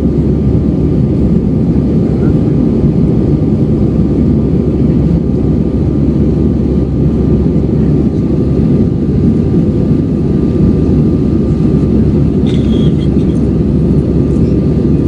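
Steady roar of an Airbus A320 airliner's engines and airflow heard from inside the passenger cabin in flight, with a faint steady whine above it.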